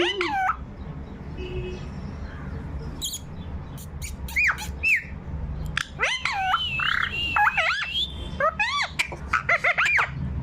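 Pet parrot calling in a string of sharp squawks and whistled, pitch-sliding calls, with a longer run of calls in the middle and quick repeated calls near the end.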